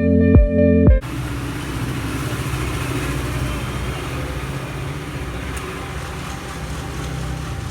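Electronic music with a steady beat cuts off about a second in. A motor vehicle's engine then runs steadily, giving a low hum under a broad noise.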